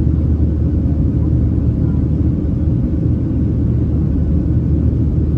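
Steady low rumble of a Boeing 737-700's CFM56-7B jet engines and airflow, heard inside the passenger cabin during the climb after takeoff.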